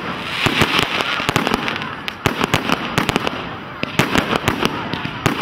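Fireworks going off in a display: rapid sharp bangs and cracks over a steady crackling hiss, with the bangs bunching together about half a second in and again near four seconds in.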